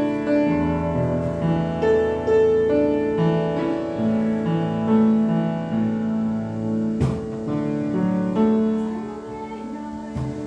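Piano playing slow, sustained chords, with a single sharp click about seven seconds in.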